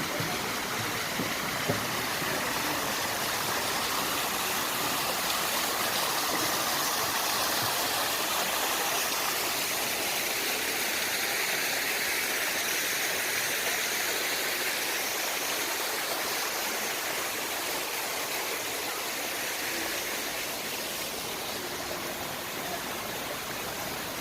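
Water fountain splashing steadily, an even rush of falling water.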